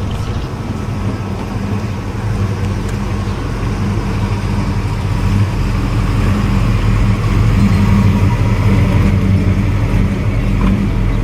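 A car engine running with a steady deep rumble, slowly growing louder.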